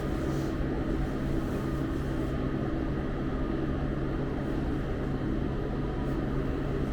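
Steady low mechanical hum with a few held low tones and an even rumble beneath, unchanging throughout.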